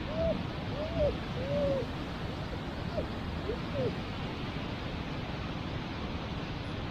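A dog whining: a run of about seven short whimpers that rise and fall in pitch, in the first four seconds, over a steady rushing noise.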